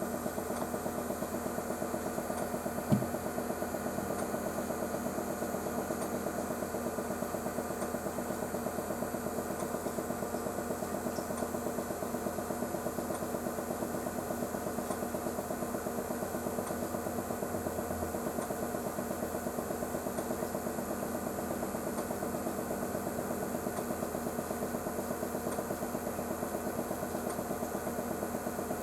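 A steady machine hum with a fast, even pulse, with one sharp click about three seconds in.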